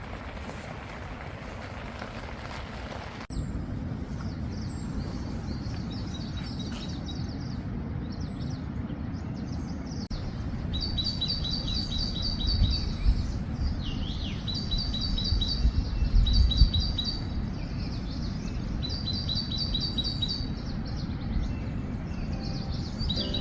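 A small songbird singing short high trills of quick notes, repeated every couple of seconds over a steady outdoor noise. A few low rumbles rise in the middle.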